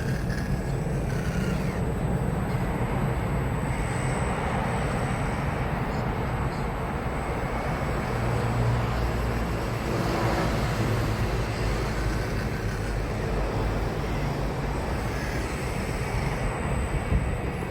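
Scale radio-controlled hydraulic excavator running: steady mechanical motor and pump noise, with a few short faint whines that rise and fall.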